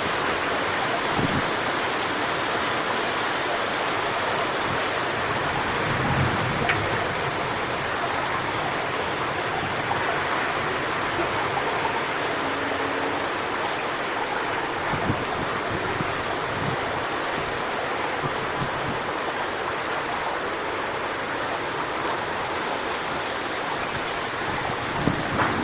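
Steady rushing hiss of strong wind blowing through coconut palm fronds, with a few low gusts buffeting the microphone, strongest near the start and near the end.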